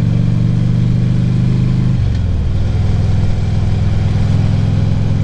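2014 Harley-Davidson Ultra Classic Limited's V-twin engine running under way. About two seconds in, its note drops in pitch, then holds steady.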